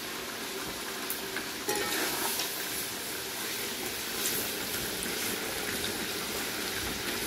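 Meat and sliced onion sizzling in hot oil in a cast-iron kazan over a wood fire, stirred now and then with a metal slotted skimmer. A steady frying hiss that gets a little louder about two seconds in: the high-heat browning of meat and onion, with the onion turning golden.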